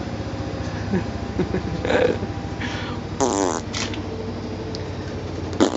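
Steady low hum of a basement appliance, with a few short voice-like sounds, one about two seconds in, a falling one a little past three seconds and a brief one near the end.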